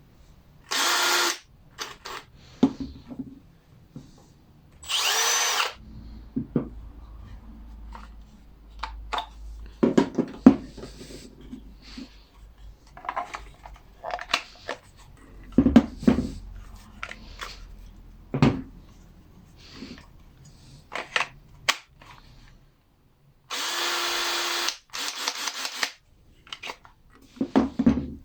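Cordless drill, powered through a battery adapter, run in four short bursts, the second spinning up with a brief rising whine. Between the runs come sharp clicks and knocks of the tool and battery being handled.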